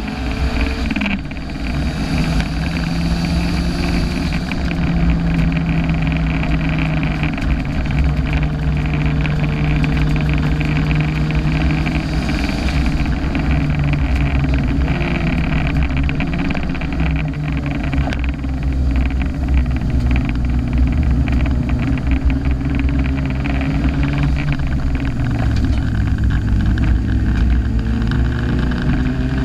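Turbocharged car engine pulling hard on a circuit lap, heard on board, its note holding and then changing pitch several times, dropping low a little before the end and climbing again, over a heavy low rumble of road and wind noise.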